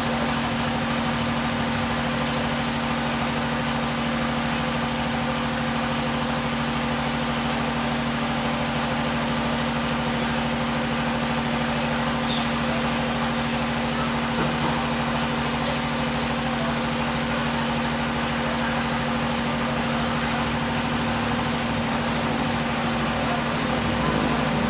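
Steady mechanical drone with a constant low hum, like a running engine or machine, unchanging throughout. A brief high hiss about halfway through.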